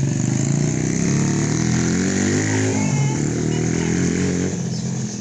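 Engine of a homemade motorcycle running, its pitch rising and falling as it is revved, dropping away near the end.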